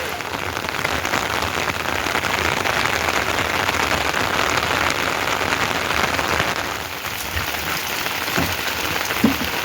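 Steady rain falling, an even hiss of many drops, dipping a little near the end.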